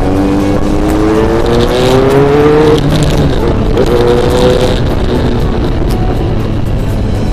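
Motorcycle engine accelerating while riding, its pitch climbing steadily for about three seconds, then dropping and settling at a steadier pitch, under heavy wind noise on the microphone.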